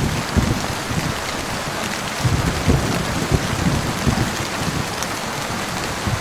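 Heavy rain falling steadily, with low rumbles of thunder that come and go, the strongest about two to three and a half seconds in.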